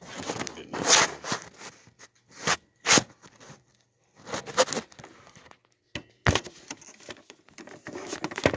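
Irregular handling noise: scrapes, rustles and a few sharp knocks, separated by short gaps of near quiet.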